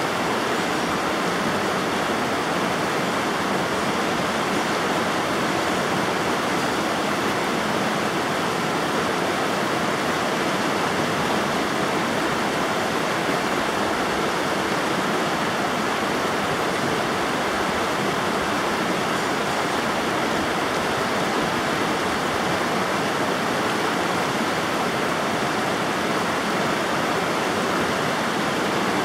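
River water rushing and splashing in a steady, unbroken rush with no changes.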